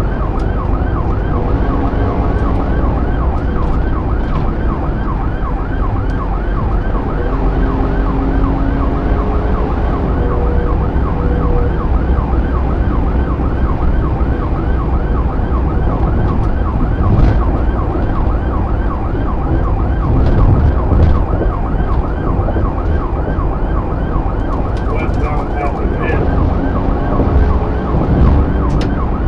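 Police car siren on a fast yelp, a quick rising-and-falling wail repeating about four times a second, over the steady low engine and road rumble of a car at speed.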